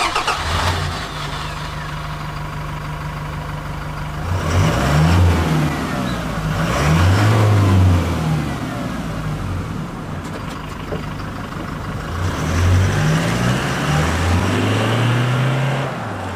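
Toyota Hilux GUN125's 2.4-litre four-cylinder turbodiesel running at medium speed through a Ganador P.B.S sports muffler. The engine note holds steady at first, then rises and falls several times as it accelerates and eases off.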